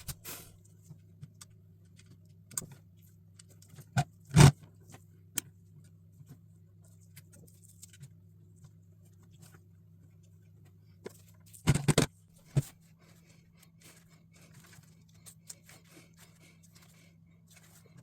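Plastic LEGO bricks clicking and clattering as the model is handled, with a sharp clack about four seconds in and a quick burst of clicks around twelve seconds in, over a steady low hum.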